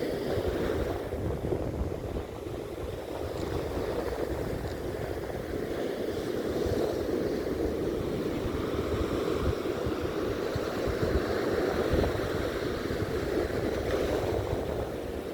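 Sea waves washing onto a beach, with wind buffeting the microphone. One wave swells louder around the middle.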